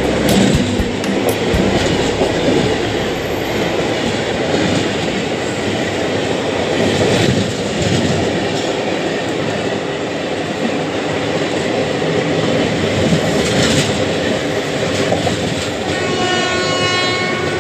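Indian Railways passenger train of red coaches rushing past close alongside: a steady loud rumble and rush with clickety-clack of wheels over rail joints. A train horn sounds briefly near the end.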